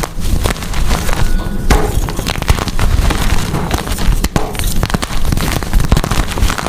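Gym chalk being crushed and crumbled, a dense, continuous run of crunches and crackling.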